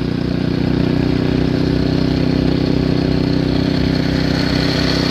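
A small engine, most likely a snowblower's, running steadily with a constant pitch.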